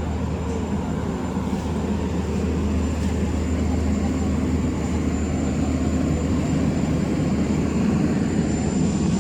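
A large engine running steadily, a low continuous drone that grows slightly louder about halfway through.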